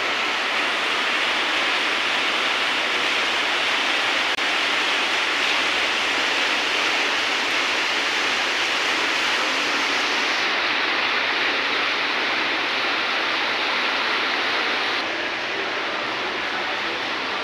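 Water falling down a stepped waterfall: a steady, even rushing that drops slightly in level near the end.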